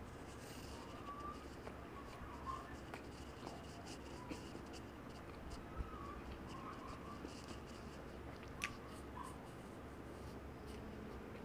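Faint chewing and small wet mouth sounds of someone eating a chocolate-topped doughnut, with two sharp clicks, one about six seconds in and one near nine seconds.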